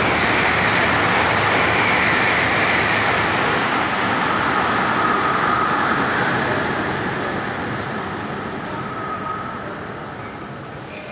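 Shinkansen high-speed train running along the station track: a loud rush of wheel and air noise with a faint whine, easing off gradually over the last five seconds or so.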